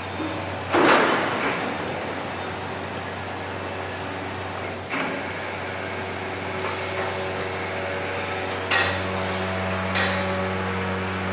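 Metal struck with a hammer in a machine shop: four sharp clanks that ring on briefly, the loudest near the start and about nine seconds in, over a steady low hum of running machinery.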